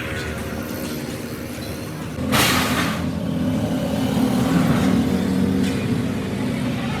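Heavy diesel truck engine running, with a short loud hiss about two seconds in, after which the engine runs louder.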